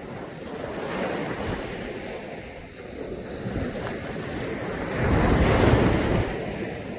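Caribbean sea waves washing onto a beach: one surge builds about a second in, and a bigger wave breaks about five seconds in, the loudest moment, then draws back. Wind buffets the microphone.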